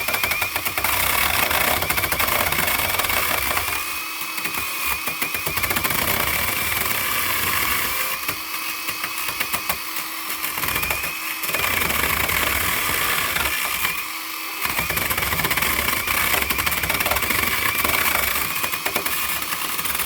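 Electric saw running continuously with a high motor whine, cutting a notch into a wooden post, with stretches of heavier cutting that come and go.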